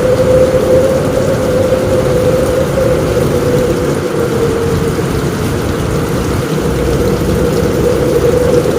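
Steady heavy rain on a roof with a low rumble underneath and a thin, steady droning tone running through it; no separate thunderclap stands out.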